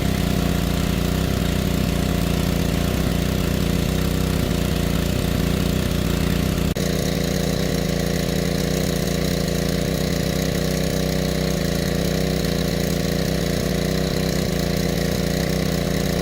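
Small engine running steadily at a constant speed, with a slight abrupt change in tone about seven seconds in.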